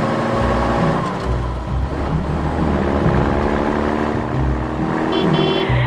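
Car engine sound effect revving and running over background music with a steady beat.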